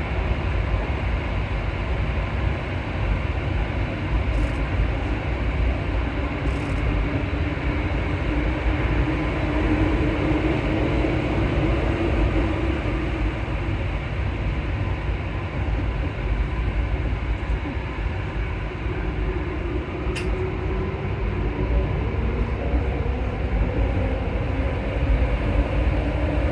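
Alstom MP14 rubber-tyred metro train running between stations, heard from inside the front car: a steady rumble with a faint motor hum that drifts in pitch. A single sharp click about twenty seconds in.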